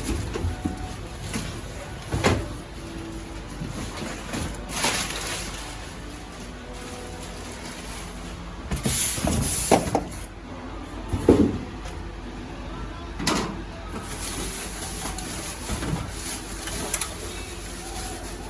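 Irregular knocks, scrapes and rustling handling noises over a steady low hum.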